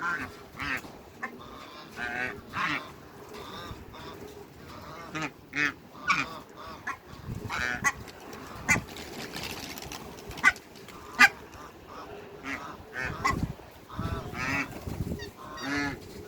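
A mixed flock of ducks and geese calling over and over, with honks and quacks overlapping. Three sharp knocks in the second half are the loudest sounds.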